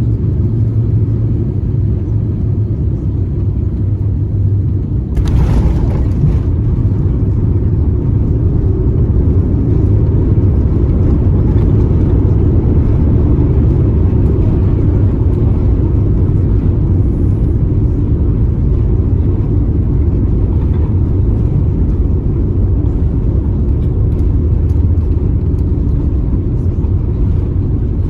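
Steady low rumble inside an Airbus A350-900 cabin as the airliner moves on the ground after landing, with a brief sharp noise about five seconds in.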